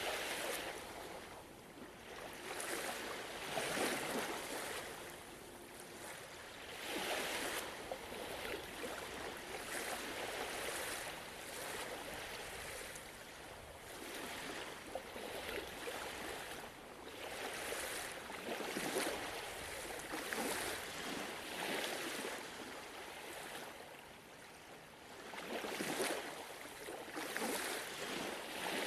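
Gentle ocean waves washing in. Each swell of surf rises and falls away every two to four seconds, at an uneven pace.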